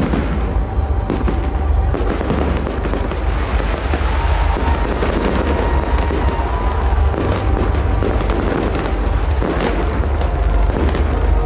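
Fireworks salute: aerial shells bursting one after another without a break, with crackle in between.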